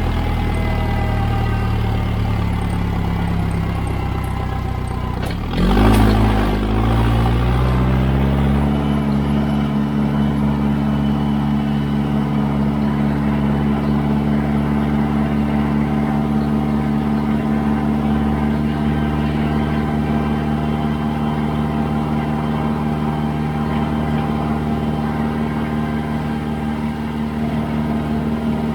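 Standard Triumph 23C four-cylinder diesel in a Kramer Export tractor running steadily. About six seconds in there is a short clack, and the engine picks up speed over a few seconds, then holds steady at the higher speed.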